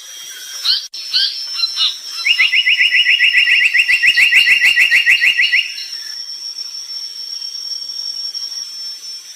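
Brown tali pocong bird singing: a few short chirps, then a fast trill of repeated falling notes lasting about three seconds. A steady high-pitched whine runs behind it throughout.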